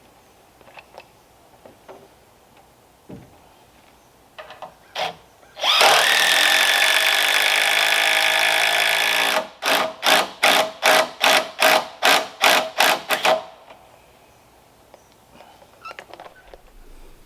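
Power drill run steadily at full speed for a few seconds, then pulsed in about eight short trigger bursts, as when driving a fastener home. A few light knocks and handling sounds come before and after.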